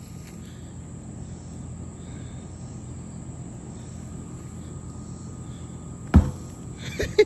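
Insects chirring steadily in the background, then about six seconds in a single heavy thud as a swung sledgehammer comes down, missing the tractor tire, followed by a smaller knock just under a second later.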